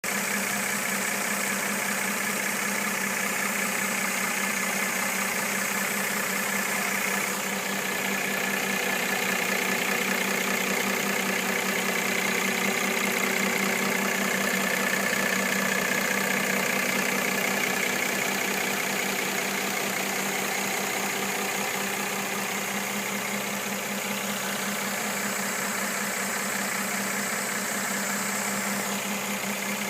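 Engine of a 2013 Mercedes-Benz E350 running steadily at idle with a knocking noise, which the owner takes for engine knock on the new car.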